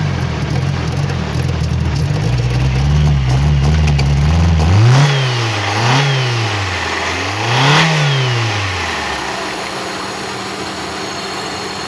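Toyota 3S four-cylinder petrol engine running unevenly, then revved three times in quick blips, each rising and falling in pitch. About nine seconds in, the engine note drops away.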